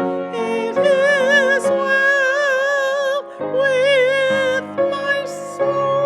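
A slow hymn sung in long, held notes with strong vibrato, over a steady accompaniment that is likely a piano.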